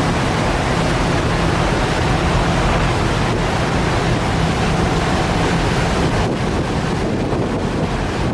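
Fast ferry's engines running with a steady low hum as it manoeuvres into its berth, over the rush of churning water and wind buffeting the microphone. The engine hum eases about six seconds in.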